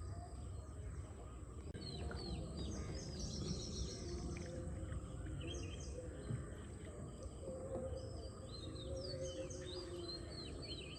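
Many small birds chirping and calling in short, quick notes throughout, over a steady low background rumble.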